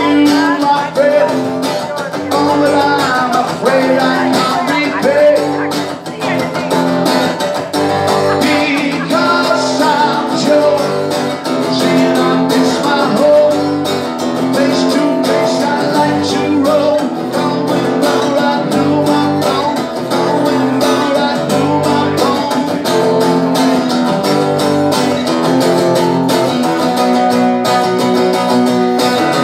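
Live music: a strummed guitar with a singing voice over it, the voice most prominent in the first half.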